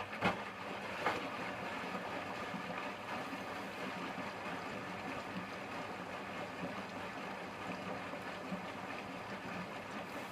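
Hotpoint washing machine with water rushing steadily through it, two knocks in the first second or so.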